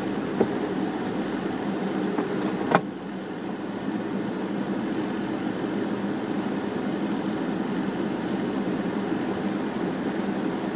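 Steady hum of a car's idling engine and air-conditioning fan, heard inside the cabin. There are two clicks: a small one just under half a second in and a sharper, louder one nearly three seconds in.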